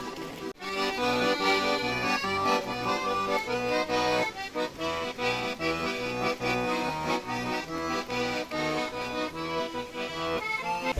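Accordion playing a lively tune, the melody moving note by note, with a brief break about half a second in.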